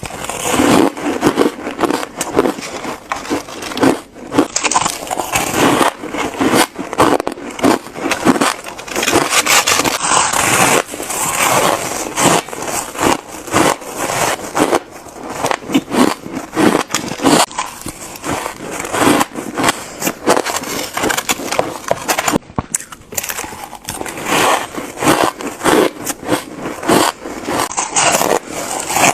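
Close-miked chewing of shaved ice, a dense run of crisp crunches and crackles as the packed ice is bitten and crushed between the teeth.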